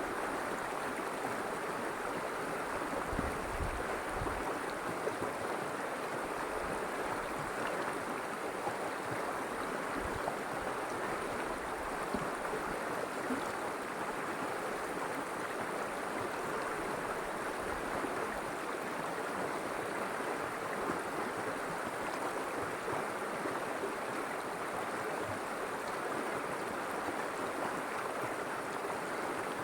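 River water flowing in a steady, even rush, with a few soft low thuds now and then.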